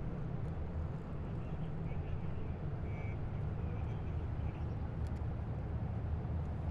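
Heavy military vehicles' engines rumbling steadily as a column moves along the street.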